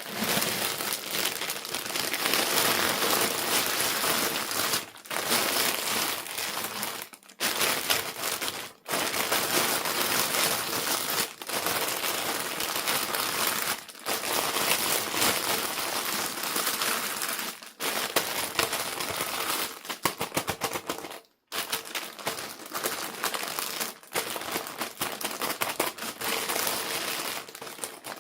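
Plastic doll packaging crinkling and crumpling as it is handled and opened, with brief breaks every few seconds.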